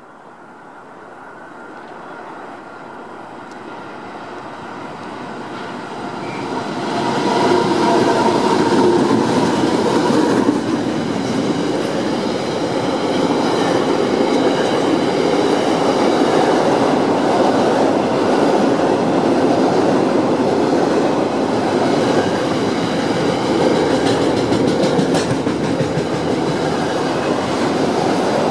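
Two NR-class diesel-electric locomotives approach and pass, with the engine sound growing steadily louder over the first seven seconds or so. The container wagons of an intermodal freight train then roll past with a steady noise of wheels on rail.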